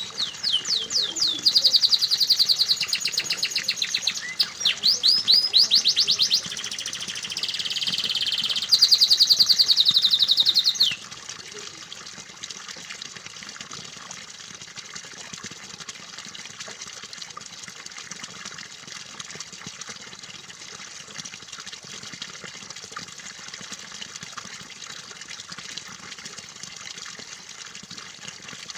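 Domestic canary singing loud, rapid trills, one fast run of repeated notes after another, breaking off suddenly about eleven seconds in. A steady trickle of running water goes on under the song and then alone.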